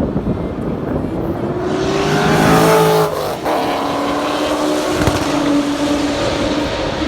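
A car engine under hard acceleration, rising in pitch to its loudest about three seconds in, then breaking off sharply and settling into a steadier note.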